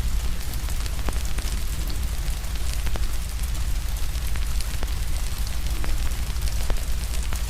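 Steady rain hiss together with a crackling fire, sharp pops and snaps scattered several times a second over a deep low rumble.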